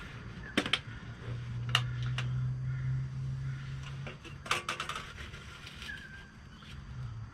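Sharp knocks and clicks of beehive boxes and frames being handled during a hive inspection. There is a single knock about half a second in, two around two seconds, and a quick cluster about four and a half seconds in. A low steady hum runs through the middle for about three seconds.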